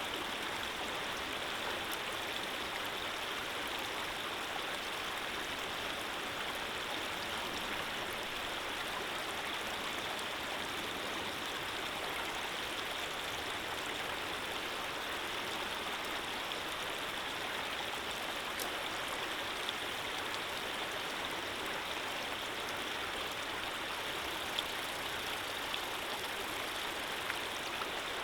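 Running water flowing steadily, an even rushing sound, with a few faint clicks near the end.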